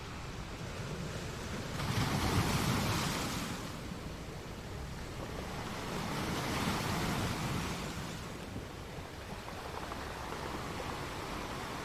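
Steady rushing noise that swells louder twice, about two and six seconds in, and then eases back.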